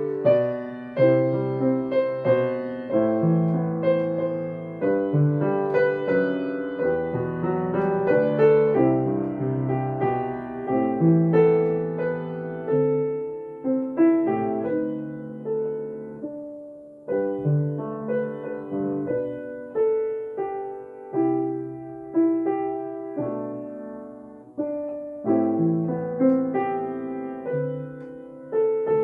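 Solo piano playing a calm, jazz-style arrangement of a hymn: chords and melody notes struck and left to ring, in phrases.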